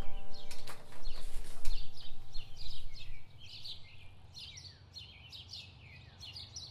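Small birds chirping: many quick, falling chirps repeated in a rapid run. At the start an acoustic guitar's last chord dies away under a low rumble, and the rumble drops off about three seconds in.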